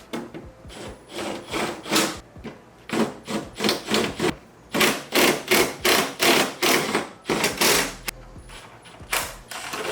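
Hand ratchet wrench swung back and forth to run bolts in, a rasping burst of pawl clicks on each stroke, about two strokes a second.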